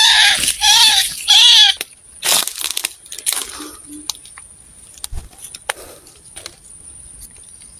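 White-breasted waterhen calling: three loud, arched notes in quick even succession in the first two seconds. Then come scattered faint clicks and rustles.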